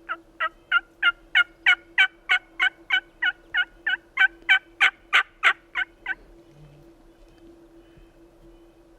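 A long, loud series of turkey yelps, about eighteen notes at roughly three a second, each note dropping in pitch; the series stops about six seconds in.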